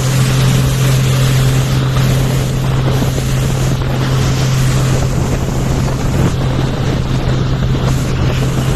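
Motorboat engine running at steady speed, a constant hum under heavy wind buffeting the microphone and rushing water.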